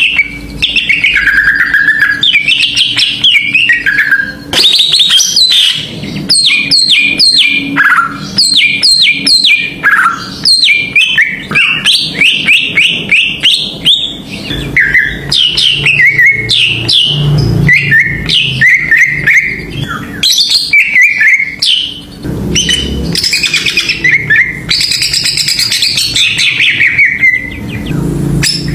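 Greater green leafbird (cucak ijo) singing loudly and without a break: rapid runs of sharp, down-slurred whistled notes mixed with chattering phrases. It is the excited, full song that bird keepers call 'ngamuk', used as a bait call to set other cucak ijo singing.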